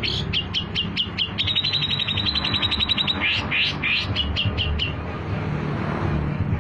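Long-tailed shrike singing: a run of sharp falling notes, about four a second, turns into a fast even trill about a second and a half in, then into harsher notes, and stops about five seconds in. Background music plays underneath.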